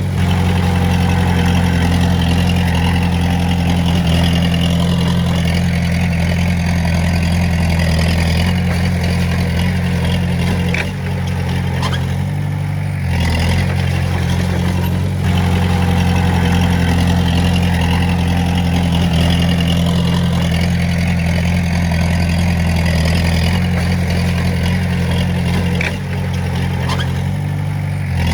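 A bulldozer's diesel engine runs steadily as it works. The engine note dips briefly twice, once around the middle and once near the end.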